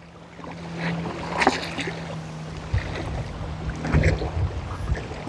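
Wind buffeting the microphone in repeated low gusts over a steady low engine hum from a motorboat out on the water, with a few brief clicks.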